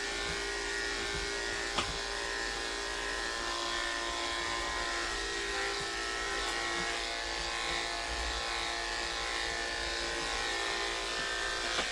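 Andis electric pet clippers running with a steady hum, shaving through a matted cat's coat. A single short click sounds about two seconds in.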